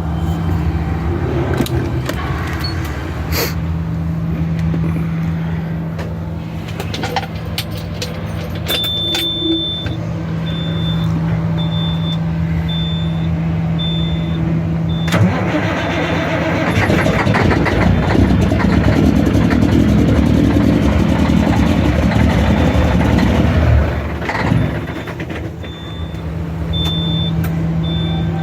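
Caterpillar 3406E inline-six diesel in a Peterbilt truck, started from cold after sitting for days in below-freezing weather. First come a few clicks and a repeating dashboard warning beep. About halfway through the engine fires and runs loud for several seconds, then drops back to a steady idle.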